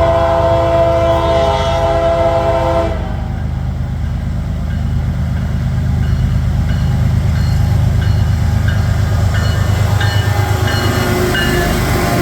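Train horn sounding one long multi-note chord that cuts off about three seconds in, then the train rumbling past, its wheels clacking on the rails.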